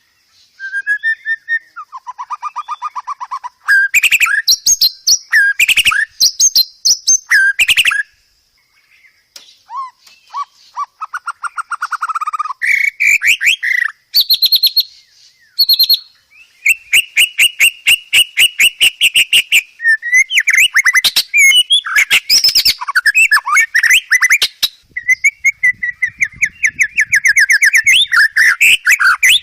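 Songbird song from a bird-song training recording: loud, varied phrases of chirps, whistled sweeps and fast trills of rapidly repeated notes, changing from one phrase to the next with a short pause about eight seconds in.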